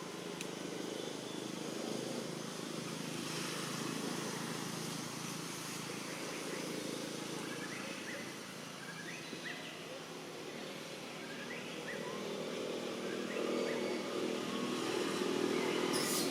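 A steady engine hum that grows louder over the last few seconds, with short high chirps scattered through the middle.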